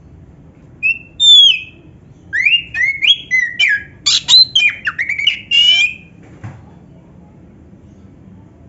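Oriental magpie-robin (kacer) singing. A short whistled phrase comes about a second in, followed by a quick run of varied rising and falling whistles and chirps lasting about three and a half seconds.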